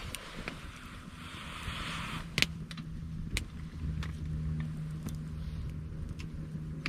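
Wood campfire of branches and driftwood crackling, with sharp irregular pops, the loudest about two and a half seconds in. A rushing hiss in the first two seconds, and a low steady hum underneath from the middle on.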